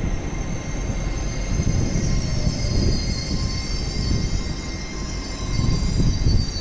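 Train wheels squealing on the rails, several high wavering squeals over the low rumble of a moving train, typical of flanges grinding through curved platform trackwork.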